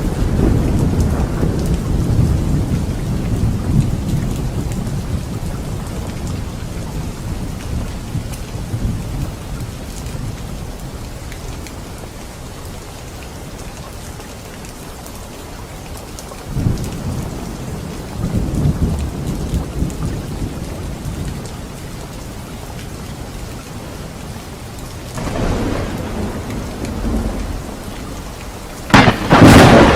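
Steady rain with rolling thunder: a long rumble fades over the first ten seconds or so, more rumbles come about halfway and past three-quarters through, and a sharp, loud thunderclap strikes near the end.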